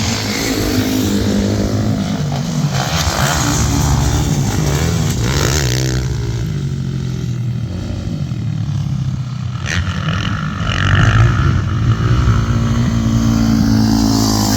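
Motocross dirt bike engines revving on the track, the pitch climbing and dropping again and again as the throttle opens and closes.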